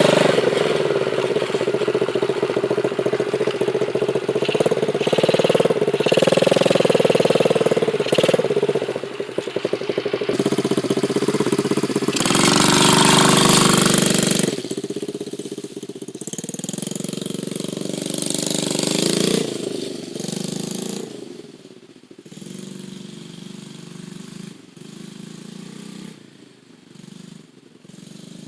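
Dirt bike engine running as the bike is ridden, its pitch rising and falling with the throttle. It has a loud surge about twelve seconds in, then drops to much quieter running in the last third.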